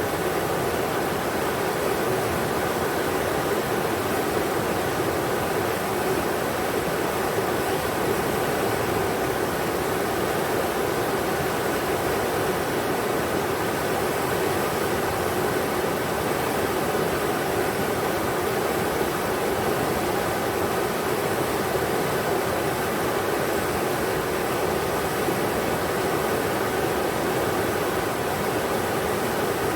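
Englishman River rushing over rocks, a steady, even roar of flowing water without breaks.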